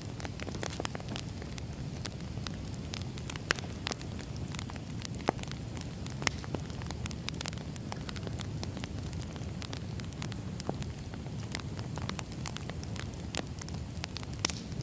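Firewood burning: a steady low rush of flame with frequent crackles and sharp pops, a few of them louder than the rest.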